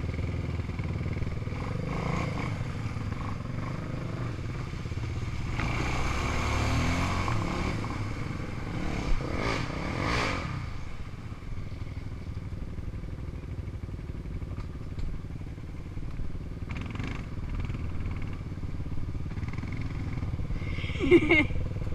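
Off-road vehicle engine running low and steady, with a louder rush of noise from about six to ten seconds in and a sharp knock near the end.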